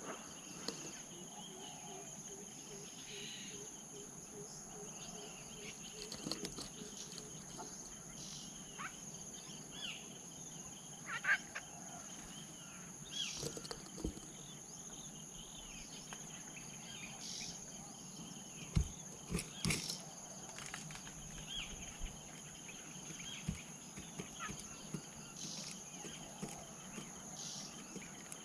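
Spotted dove cooing faintly against a steady, high-pitched insect drone, with scattered short chirps of other birds and a few sharp knocks.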